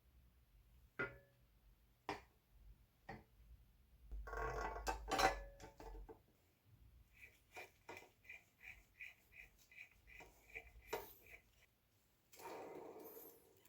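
Metal parts and hand tools clinking and rattling on a workbench while a BMX bike is worked on. There are a few sharp clicks, then two short rattling scrapes, and between them an even run of light ticks, about three a second, for a few seconds.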